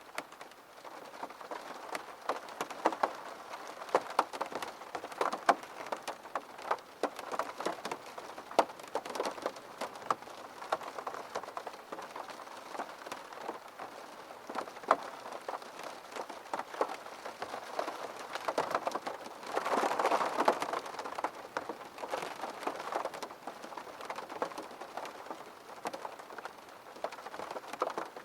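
Rain falling on window glass: a steady patter with many distinct drops tapping sharply against the pane. About two-thirds of the way through there is a brief, heavier rush of rain.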